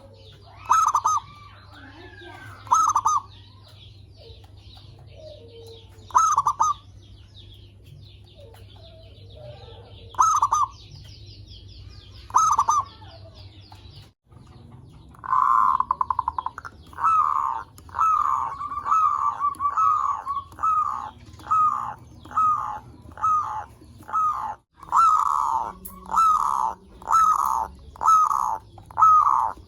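Zebra doves (perkutut) cooing. In the first half there are a few separate calls several seconds apart. After a sudden break about halfway, a fast, steady run of repeated coos follows, roughly one a second.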